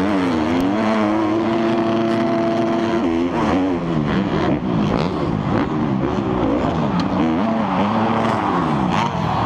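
Several four-stroke motocross bikes' engines revving hard as they race, their pitch rising and falling with each throttle and gear change. Near the start one engine holds a steady pitch for a couple of seconds.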